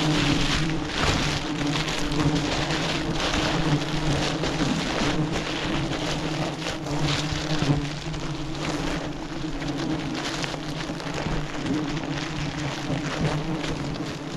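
Swarm of giant honeybees buzzing, a steady low hum, over dense irregular crackling and rustling.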